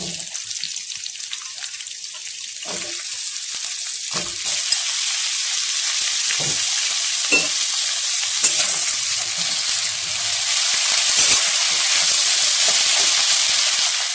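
Diced potatoes and green beans sizzling in hot mustard oil in an aluminium kadai. The sizzle grows louder about four seconds in, and a few short knocks are heard through it.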